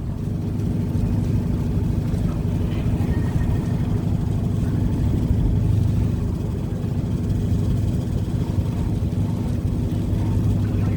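Heavy vehicle engines running with a steady low rumble and a constant hum, as trucks and cars drive onto a ferry.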